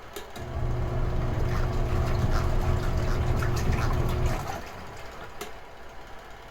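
Retro-style washing machine in its wash cycle: the motor runs with a steady low hum for about four seconds, then cuts off, leaving the water swishing in the tub.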